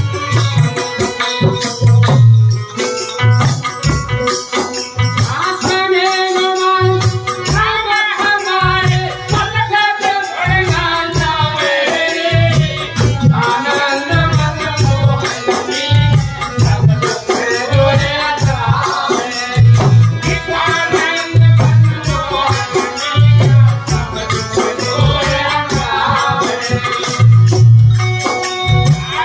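A devotional bhajan: a man singing over a steady drum beat with rattle or shaker percussion. The singing comes in about six seconds in; before that the accompaniment plays alone.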